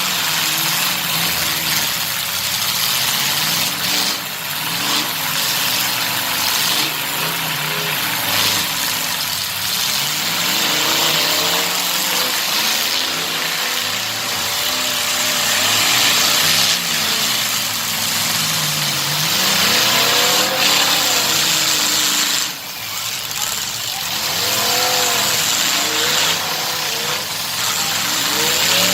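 Truck engines revving up and down over a steady roar, the engine pitch rising and falling repeatedly throughout.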